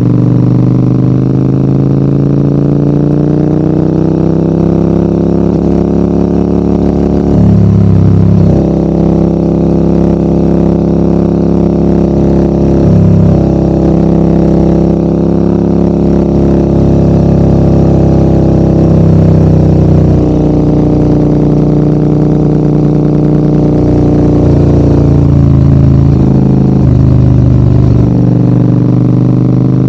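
Large adventure motorcycle's engine pulling uphill, its note rising and falling with the throttle. The engine note breaks and drops briefly three or four times as the rider eases off or shifts.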